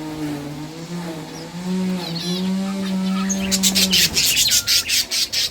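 Pet budgies chirping, with a few scattered calls at first and then a rapid run of sharp, high chatter in the second half. A low, steady hum sounds under the first few seconds and stops about four seconds in.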